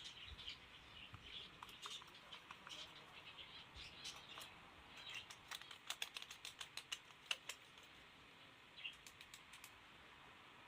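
Faint, sharp small clicks and taps, a quick irregular run of them in the middle and a few more near the end, over faint bird chirping in the background.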